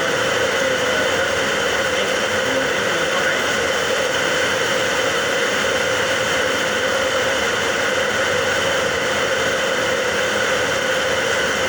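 Heavy rain falling, a loud steady hiss with no breaks.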